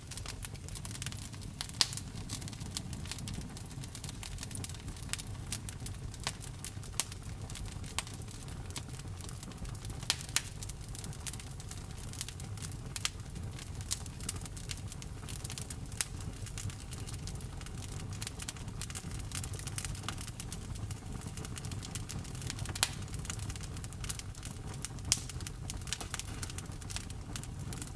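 Campfire of burning wood crackling: irregular sharp pops and snaps over a steady low rumble from the fire.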